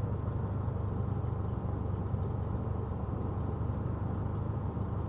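Cessna 172's piston engine and propeller, a steady low drone heard in the cockpit.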